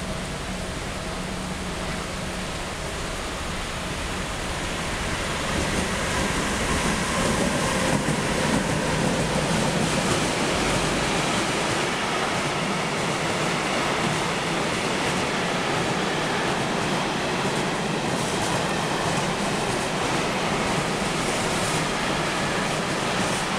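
A train running past on the track, its rolling noise swelling about five seconds in and then holding at a steady level.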